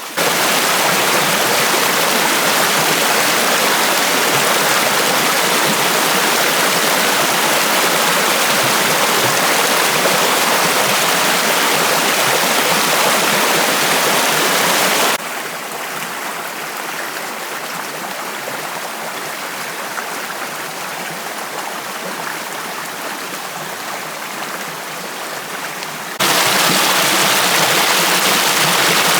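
Steady rush of river water tumbling over rocks, loud and even. About halfway through it drops abruptly to a quieter, duller rush, then jumps back to full strength near the end.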